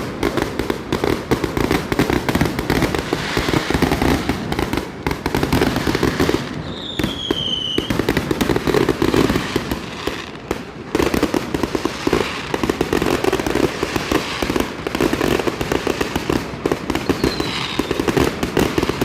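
Fireworks going off in a dense, continuous barrage of rapid pops and bangs. A short falling whistle sounds about seven seconds in, and a fainter one near the end.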